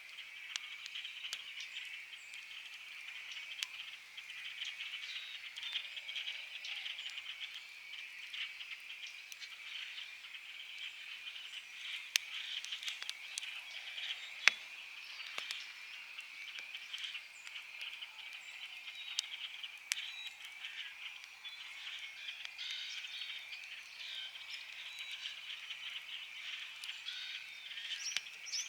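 A steady chorus of frogs trilling, with the sharp crackles and pops of a wood campfire scattered through it; the two loudest pops come a little before and after the middle.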